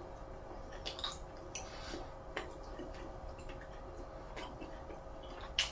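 A man chewing a mouthful of chicken breast: faint, wet mouth clicks and smacks scattered through, with one sharper click near the end.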